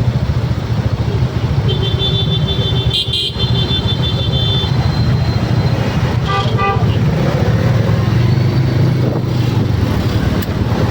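Road traffic: cars and motorcycles running in a steady low rumble, with a vehicle horn held for a couple of seconds about two seconds in and a few short horn toots about six seconds in.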